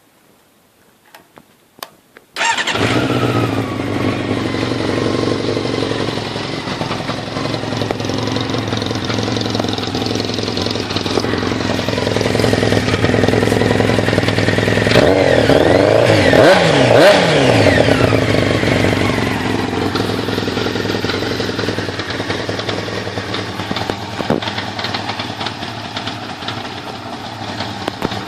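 Honda CBR600 F2's inline-four engine starting after a few faint clicks, about two and a half seconds in, then idling steadily. Around the middle it is revved up and down several times in quick blips before settling back to idle.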